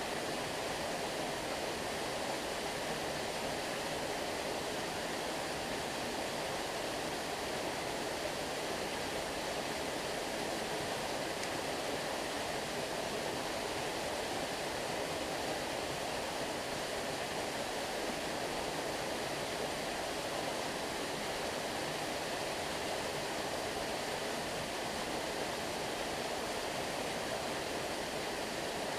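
Flowing water, a steady, even rush with no breaks or changes.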